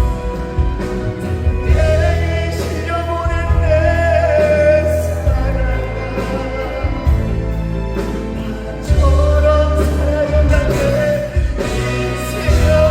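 Live trot song performance played loud through a concert sound system, a band with a held, gently sliding melody line over a steady bass.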